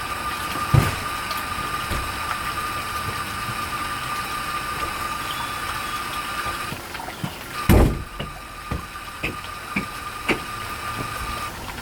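Hard drive with worn-out spindle bearings running during a Macintosh Plus boot-up, with a steady high-pitched whine: the bearings are gone. A loud clunk comes under a second in. The whine cuts out about seven seconds in and returns after a louder clunk, followed by several lighter clicks.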